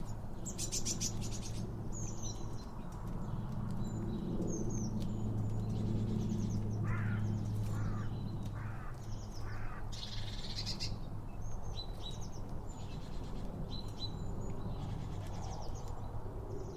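Songbirds chirping, repeating short high calls that glide downward, with a few lower, harsher calls about halfway through, over a steady low rumble.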